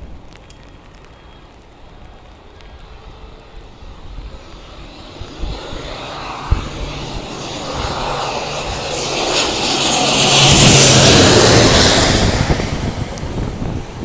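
Fokker 50 twin-turboprop airliner on its landing run past, its engines and propellers growing louder to a peak about eleven seconds in, then falling away. A steady low propeller hum drops slightly in pitch as it goes by.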